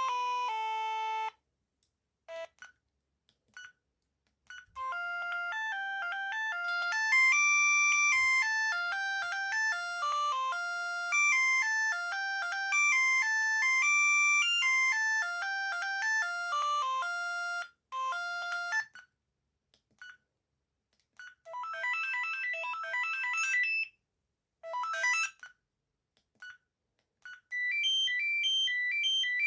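Amstrad S288 (Bird S288) mobile phone playing its built-in ringtones through its small loudspeaker: simple, very basic electronic melodies, one after another. A tune stops about a second in, a few short snatches follow, a longer melody runs from about five to eighteen seconds, then several shorter tunes with brief gaps between them.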